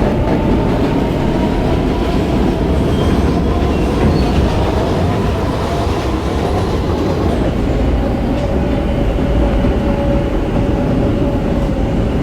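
R160B subway car with Siemens propulsion running on the rails: steady wheel-and-track rumble with clickety-clack. Over it, a faint motor whine slowly falls in pitch as the train slows into a station.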